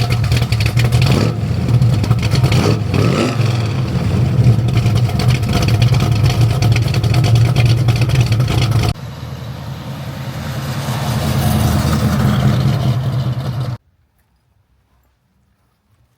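1969 Ford Mustang Mach 1's V8 engine running with a deep, steady rumble and a few revs near the start. About nine seconds in it drops suddenly to a quieter level, builds up again, then cuts off abruptly a couple of seconds before the end.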